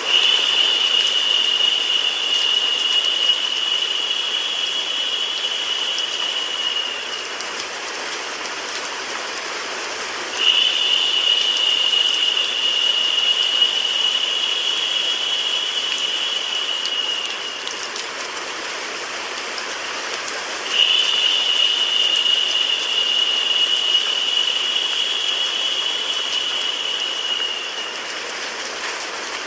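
Rain sound effect mixed with steady white noise: an even hiss. A brighter, higher hiss swells in for about seven seconds, drops away, and returns twice more at regular intervals.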